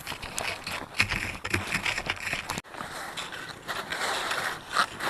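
Skis swishing and crunching over slightly thawed snow in uneven strides, with a brief break a little past halfway.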